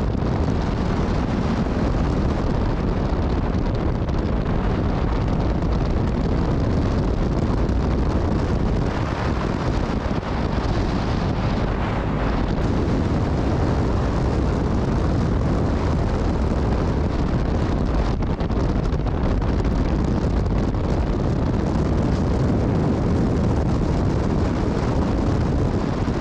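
Steady rush of wind on the microphone while riding a BMW GS Adventure motorcycle at speed, with the engine running underneath.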